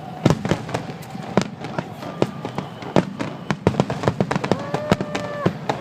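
Aerial fireworks bursting in quick succession: sharp cracks and bangs several times a second. A steady held tone, about a second long, sounds faintly over them near the end.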